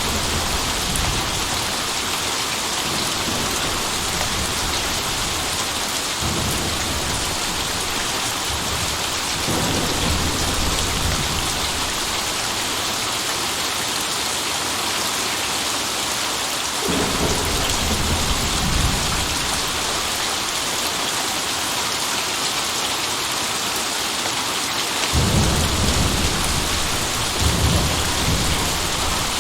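Steady heavy rain with rolls of thunder rumbling in several times, the strongest near the end.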